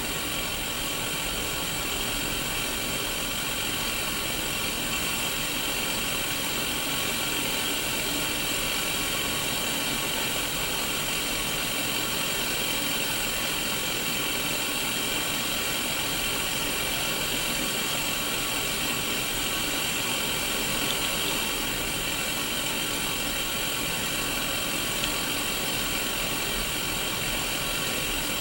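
Steady static hiss from a Sony Mega Watchman black-and-white mini CRT television showing white noise with no signal. The hiss is brightest in the upper-middle range, with faint steady tones running through it, and does not change.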